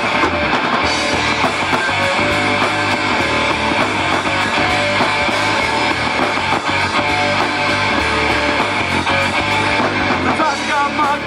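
Live rock band playing an instrumental passage: electric guitar over bass and drums.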